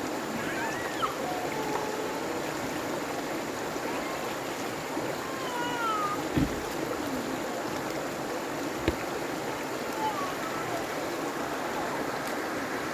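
Steady rushing noise of running water, with short gliding chirps over it and two sharp knocks, one about six seconds in and one near nine seconds.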